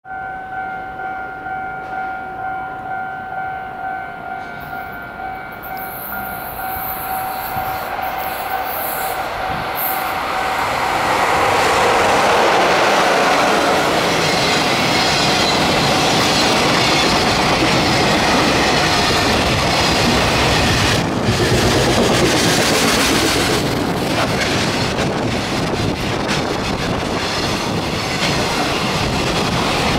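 A JR Freight EF66 electric locomotive, No. 112, and its freight train passing at speed. For the first ten seconds a steady, pulsing two-pitch tone sounds over the train's approach; then the noise builds to a loud, continuous rumble as the locomotive and a long line of container wagons go by, their wheels clattering over the rail joints.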